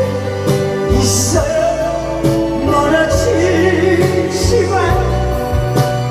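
A live singer over an amplified backing track with a steady bass line and drum beat. The singer holds notes with a wavering vibrato, a little past the middle.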